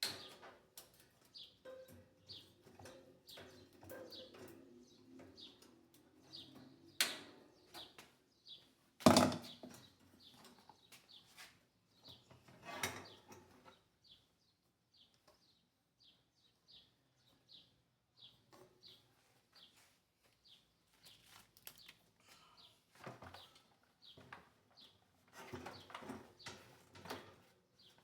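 A small bird chirping over and over in short, quick notes. Scattered clicks and knocks come through it, the loudest a single sharp knock about nine seconds in.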